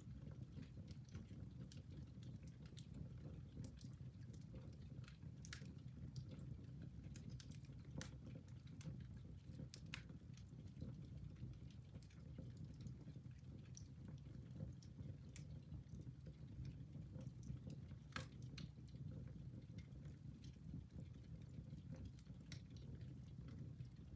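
Wood fire burning in a fireplace: faint, irregular crackles and pops over a low, steady rumble of the flames, with a sharper pop about 18 seconds in.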